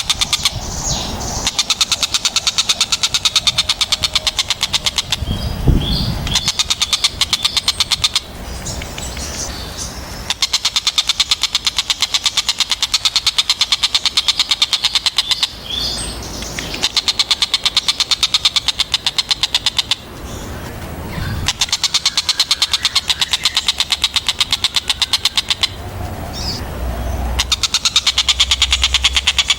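A tengkek buto kingfisher calling in long runs of rapid, even, harsh chattering notes, broken by short pauses, with a low rumble now and then.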